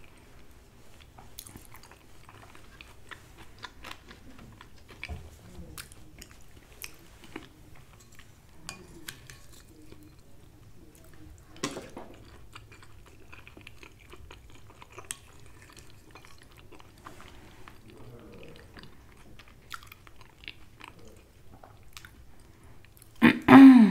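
A person chewing mouthfuls of food, including spoonfuls of peas, with scattered small mouth clicks and one louder click near the middle.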